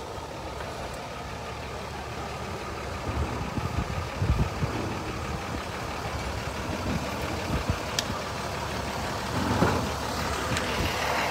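A motor vehicle's engine running at idle, with a few low thumps about three to five seconds in.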